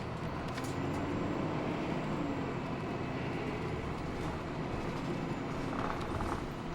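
Hino Blue Ribbon II city bus under way, heard from inside the cabin. The engine and drivetrain run with a faint steady whine over road noise, and a few brief rattles come from the bodywork.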